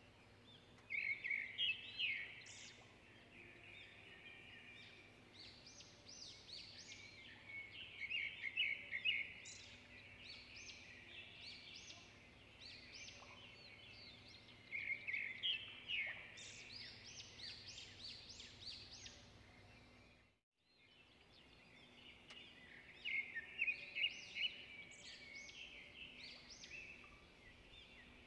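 Birds chirping and singing in short bouts every few seconds over a faint steady background hum.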